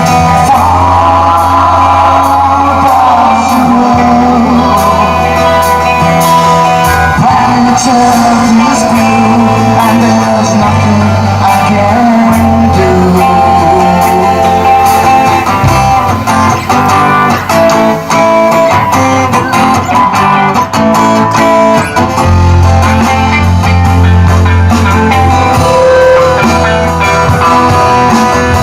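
Live band playing a loud rock-blues number: guitar over a steady bass line, with regular drum hits.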